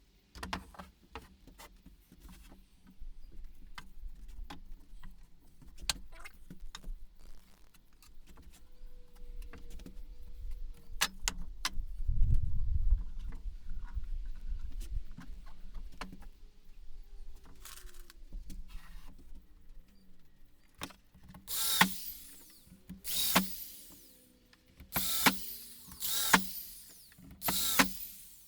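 Knocks and clicks of wooden pieces being handled, then, in the last several seconds, about five short bursts of a power drill driving screws into the wood, one every second or so.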